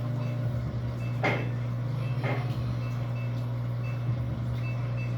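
Electrolux LAC13 13 kg top-loading washing machine running its wash, its motor humming steadily, with two brief louder swishes about a second and two seconds in.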